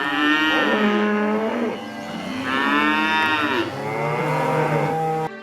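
Beef cows and calves bawling as they pair up, cows and calves calling to find each other: overlapping moos, with two long loud calls of about a second and a half each. The sound cuts off suddenly near the end.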